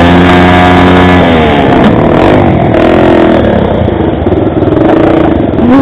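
Motorcycle engine running under changing throttle: the pitch holds high for about a second, drops, then rises and falls again.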